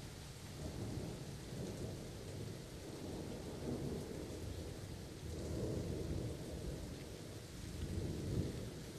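Steady rain falling with rolling thunder: low rumbles swell and fade several times, the loudest about halfway through and near the end.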